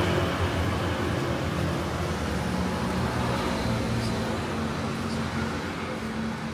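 Road traffic on a city street: a steady mix of engine and tyre noise that slowly fades.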